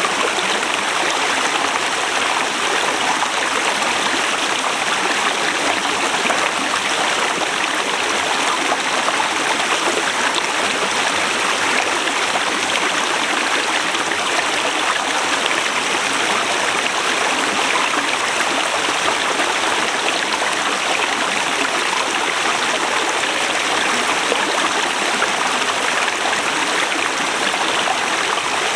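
Forest river rushing over rocks in a steady, even flow.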